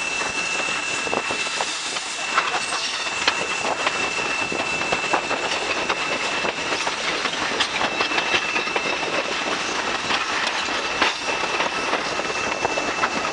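Excursion train rolling along the track: the cars rattle and the wheels click irregularly over the rail joints. A steady high-pitched squeal runs through it all.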